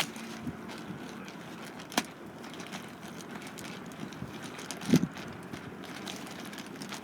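Wood campfire crackling, with one sharp pop about two seconds in and a dull thump about five seconds in.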